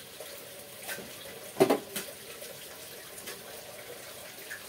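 Sliced bitter gourd and egg sizzling steadily in a wok, with one sharp clatter about a second and a half in.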